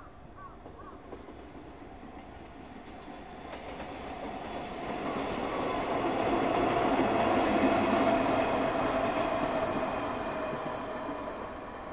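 Locomotive-hauled train with two new diesel railcars passing on electrified track: the rumble and clatter of wheels on rail swell as it approaches, are loudest about two-thirds of the way through, then fade as it goes away.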